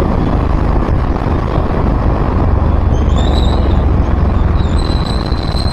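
Road and travel noise from a moving vehicle in traffic: a steady, loud low rumble. A faint high whine joins from about three seconds in.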